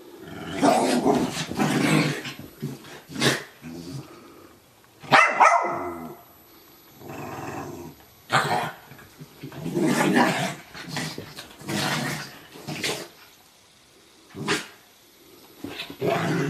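Two dogs play-fighting: bouts of growling broken by short, sharp barks.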